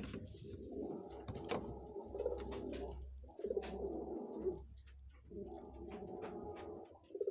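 Domestic pigeons cooing, several low rolling coos in a row with short breaks between them, mixed with scattered sharp clicks.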